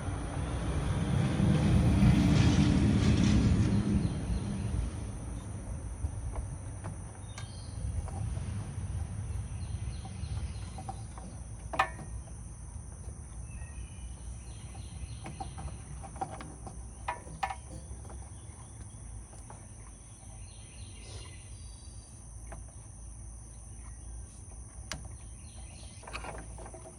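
Outdoor ambience: a low rumbling noise swells up and fades away in the first few seconds, then steady insect buzzing with scattered bird chirps and occasional sharp clicks and knocks.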